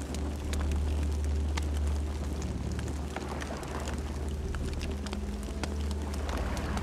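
Campfire burning: a steady low rumble of flames under frequent sharp crackles and pops from the burning wood.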